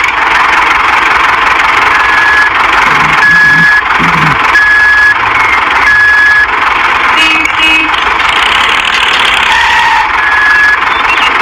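A small vehicle motor running steadily, with a short high-pitched electronic beep repeating about every second and a quarter, like a reversing alarm, pausing for a few seconds midway.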